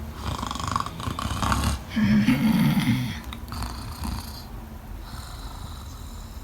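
Snoring: drawn-out snores, the loudest and most rasping about two seconds in, then fainter.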